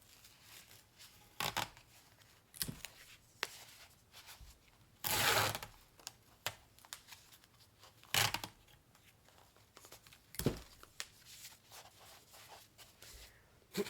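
Packaging material being handled while packing a parcel: several short bursts of tearing and crinkling, with small clicks and knocks in between.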